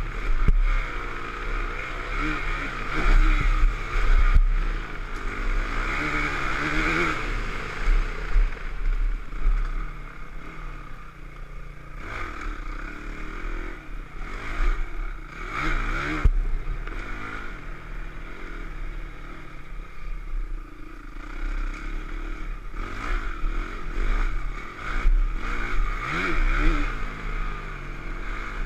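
Dirt bike engine running while riding, its pitch rising and falling again and again with the throttle, under a constant low rumble.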